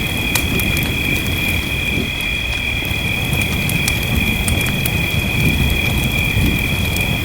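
Wood fire crackling, with scattered sharp pops over a low steady rumble, mixed with gentle rainfall. A steady high-pitched tone runs underneath.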